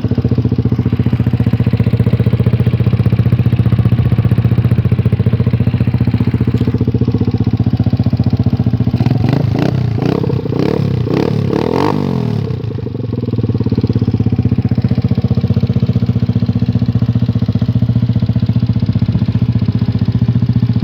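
Motorcycle engine of a Vento Urban GT 150cc fitted with an SRP shorty exhaust, idling steadily. About halfway through it is given several quick throttle blips, then settles back to idle.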